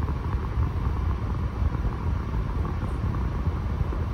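Air-conditioning system of a Smart 453 EQ running after a regas, blowing cold: a steady low rumble from its fans.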